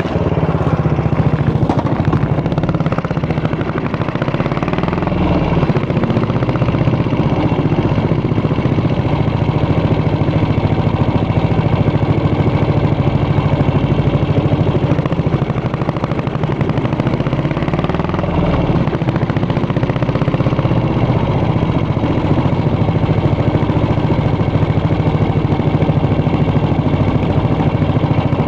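Yamaha SR400 single-cylinder four-stroke engine idling just after starting, its exhaust a fast, even beat. Engine speed rises slightly around five and again around eighteen seconds in.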